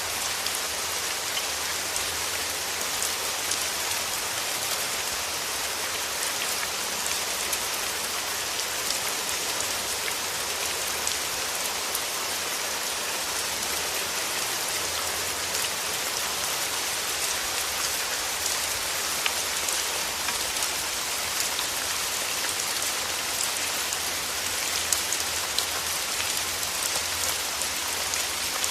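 Steady rain falling through forest trees: an even hiss of rainfall with many small, scattered drop ticks on leaves.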